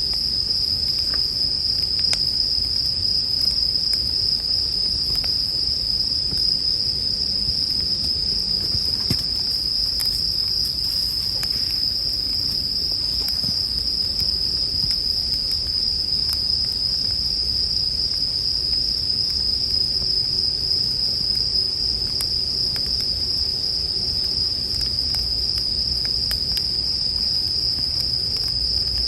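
Bell crickets (suzumushi) chirping in a continuous high-pitched chorus, with a few faint crackles from a wood campfire.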